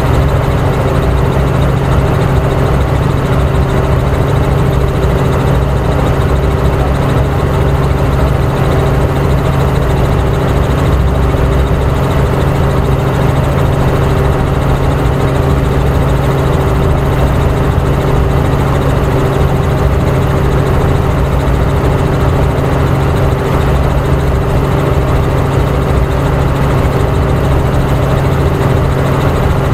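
Helicopter in flight: the steady, unbroken drone of its engine and rotors, with a low hum and a higher tone held constant throughout.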